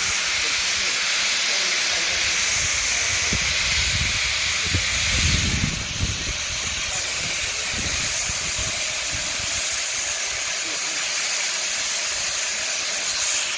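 Steam locomotive hissing steadily from escaping steam, with a low rumble and a few thuds about halfway through.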